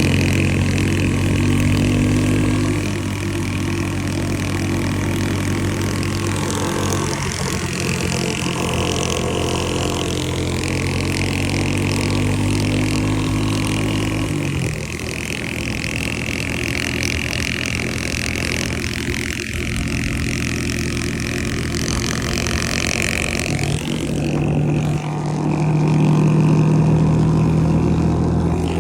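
Small engine running at a steady speed. The engine note drops about halfway through, then rises and gets louder for a few seconds near the end.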